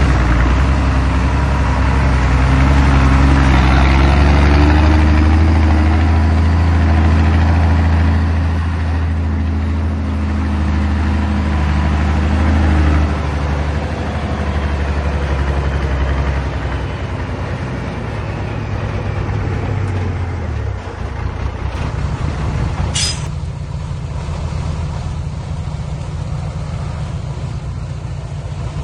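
Dump truck's diesel engine running at raised revs, then easing down in steps to a steady idle about halfway through; a short sharp burst of noise near the end.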